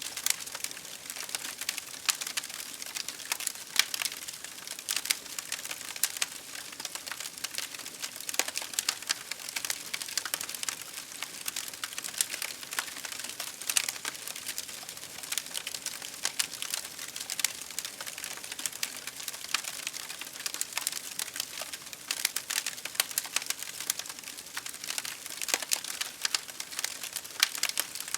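Wood campfire crackling and popping, with many irregular sharp snaps over a steady hiss.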